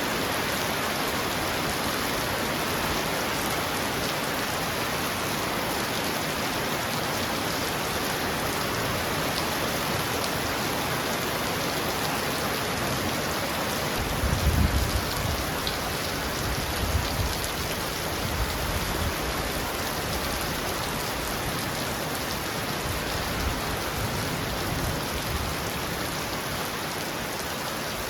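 Heavy rain falling steadily on a roof, an even hiss, with a few low rumbles of thunder about halfway through.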